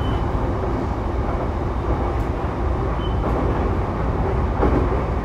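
Sotetsu 12000 series electric commuter train running between stations, heard from inside a passenger car: a steady rumble of wheels on rail, growing slightly louder near the end.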